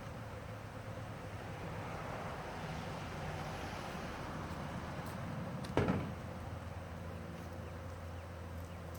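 Honey bee swarm buzzing as a steady hum, with one sharp thump a little before six seconds in.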